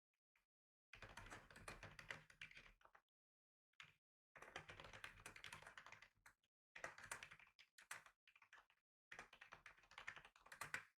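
Typing on a computer keyboard in four quick runs of rapid key clicks, with short pauses between them.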